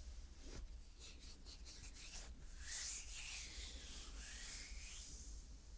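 Close-up rubbing on a microphone: a run of small clicks, then a longer, hissy rub through the middle.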